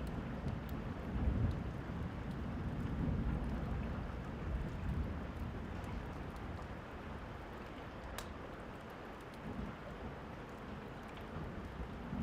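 Steady rain falling, with a low rumble of distant thunder in the first half that fades away. A few sharp fireplace crackles pop over it, the loudest about eight seconds in.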